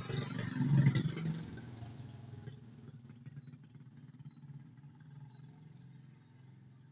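A motor vehicle engine passing close by. It is loudest about a second in, then fades away over the next few seconds.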